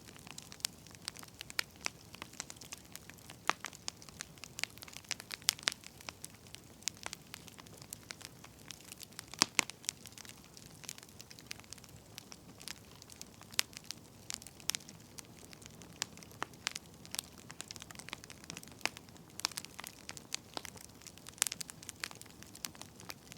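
Firewood burning in a fire, crackling with irregular sharp pops and snaps over a soft steady hiss.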